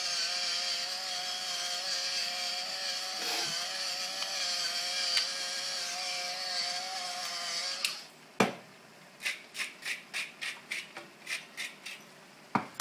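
Small electric spice grinder motor running steadily with a wavering whine, cutting off about eight seconds in. A sharp knock follows, then about a dozen short, quick strokes, about four a second.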